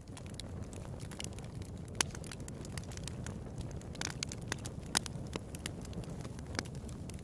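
Wood fire burning in a fireplace: a steady low rumble of flames with irregular crackles and sharp pops, the loudest pops about two, four and five seconds in.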